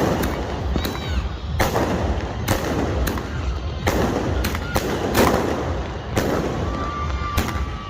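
Fireworks and firecrackers going off over and over, sharp bangs about one every half second to a second, each with a short echoing tail, over a constant low rumble. A held whistling tone sounds near the end.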